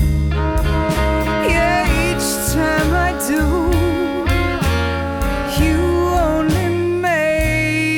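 Swing jazz band playing an instrumental break: a bass steps through notes about twice a second under drums, while horn lines with bends and vibrato carry the melody.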